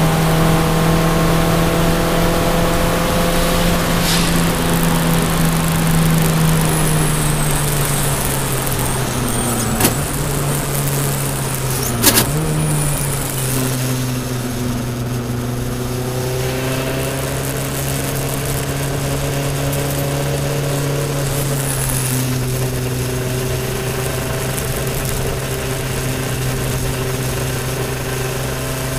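Toyota Celica All-Trac's turbocharged 2.0-litre four-cylinder engine running under steady throttle, heard from inside the cabin over tyre and wind noise. Its pitch sags slowly, dips briefly twice with a sharp click around ten and twelve seconds in, then holds at a lower steady pitch.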